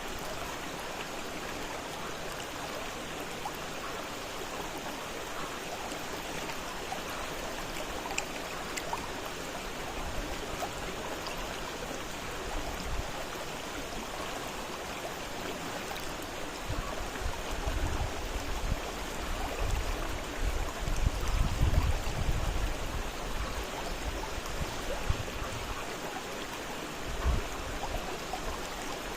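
Fast-flowing river water rushing steadily, with an irregular low rumble that swells in the middle.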